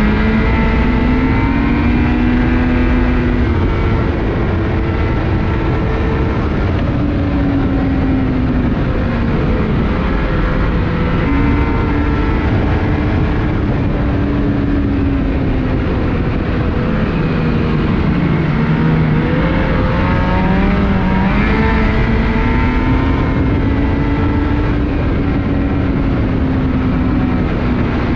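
Ski-Doo Renegade 600R E-TEC two-stroke snowmobile engine running under way, its pitch rising and falling repeatedly with throttle changes, over a steady low rumble.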